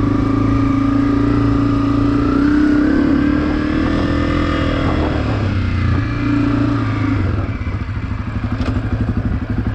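Off-road vehicle engine running under way, its pitch shifting a little with the throttle. About three-quarters of the way through it drops to a slower, evenly pulsing chug at low revs.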